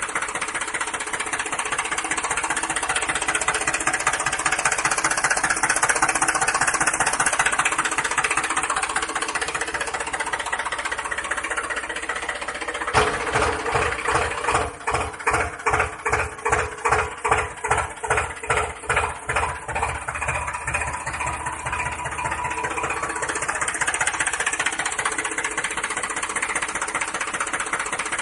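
Small electric motor of a homemade toy tractor running steadily with a mechanical rattle. For several seconds in the middle it pulses in an even knocking rhythm, about two to three beats a second.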